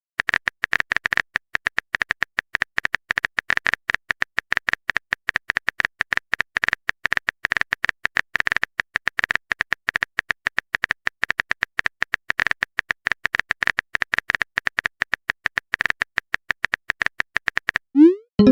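Rapid, irregular clicks of a phone keyboard's typing sound as a message is typed out, several taps a second. A short rising swoosh sounds near the end.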